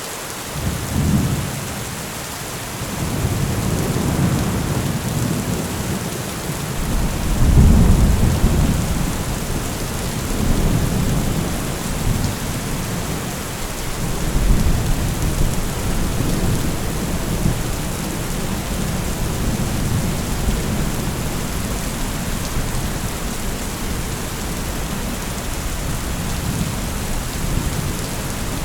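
Thunderstorm: steady rain hissing, with rolling thunder rumbling low several times, the loudest roll about eight seconds in, settling after about seventeen seconds into rain with fainter rumbles.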